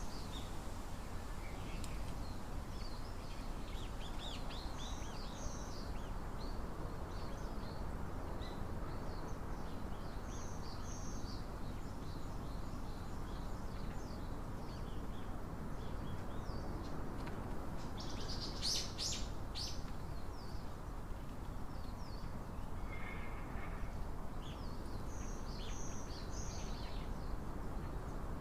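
Small songbirds chirping in short, high notes scattered throughout, with a louder burst of chirps about two-thirds of the way through, over a steady background hiss.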